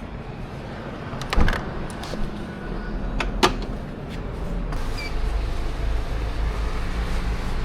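Derbi Senda 88cc two-stroke engine running, heard from onboard, growing steadily louder toward the end. Two sharp knocks come about a second and a half and three and a half seconds in.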